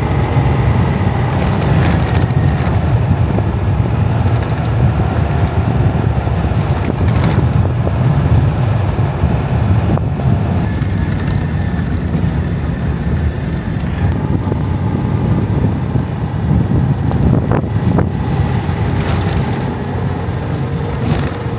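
Citroën 2CV's air-cooled flat-twin engine running steadily under way on a rutted dirt track, with wind noise on the microphone and a few sharp knocks.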